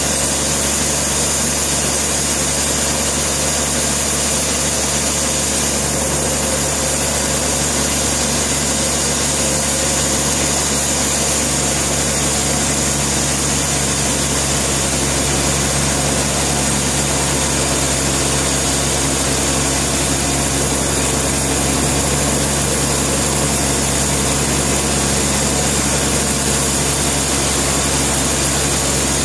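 Sawmill machinery running steadily: an engine-like drone with a constant low hum and hiss, holding the same pitch and level throughout.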